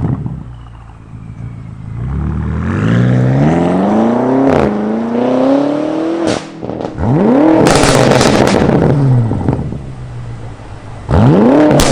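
BMW F90 M5's twin-turbo V8 through a 3.5-inch straight-pipe catback exhaust, revved hard. The pitch climbs from about two seconds in, breaks off sharply about six seconds in, then rises again and falls away, with a fresh hard rev starting near the end.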